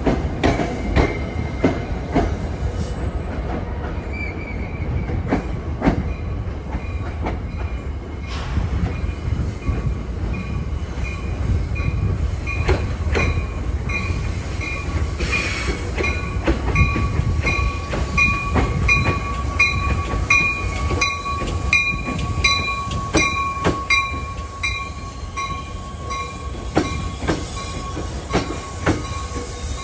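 NJ Transit passenger train cars rolling slowly through the terminal trackwork: wheels clicking over rail joints and switches, with a steady wheel squeal and a higher squeal pulsing about twice a second through the middle.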